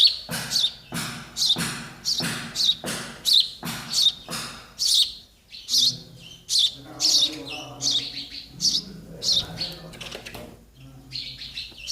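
Sparrow chicks giving begging chirps while waiting to be fed: short, high chirps repeated over and over, about two a second.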